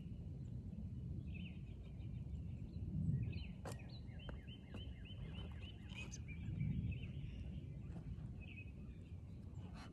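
Low rumbling outdoor noise, swelling now and then, with a small bird calling a fast run of repeated high chirps through the middle and a few sharp clicks.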